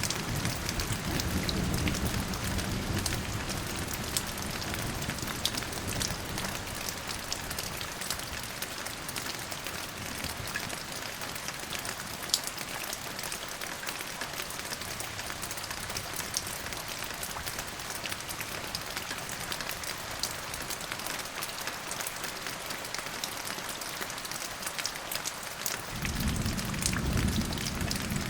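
Steady rain falling, an even hiss full of fine drop ticks, with low thunder rumbles at the start and again near the end.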